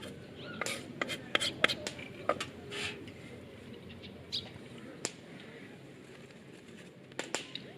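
A series of sharp light clicks and knocks, clustered in the first three seconds and again near the end, over faint background voices.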